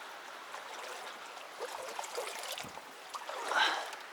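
Mountain stream flowing steadily, with a louder brief noise about three and a half seconds in.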